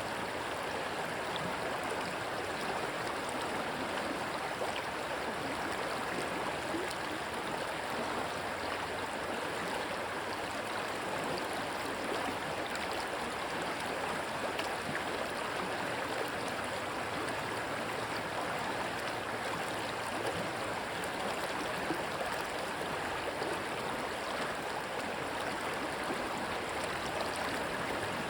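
Rushing water of a stream, a steady, even rush with no breaks.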